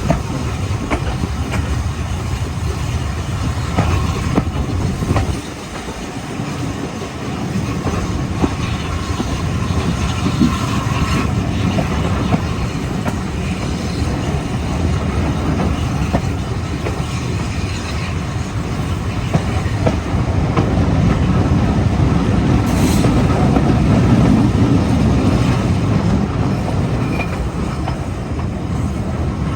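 Train running along the track: a steady rumble of wheels on rail with scattered clicks, a brief wheel squeal about ten seconds in, and somewhat louder running in the last third.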